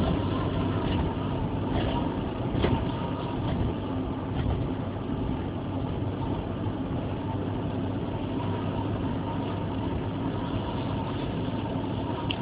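Sandstorm wind rushing steadily over a constant low hum, with a few faint ticks about two and a half seconds in.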